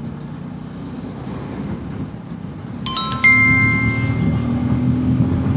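Bajaj Pulsar N250 motorcycle engine running under way, a steady low drone that grows louder about three seconds in. Just before that, a bright metallic chime strikes twice in quick succession and rings on for over a second.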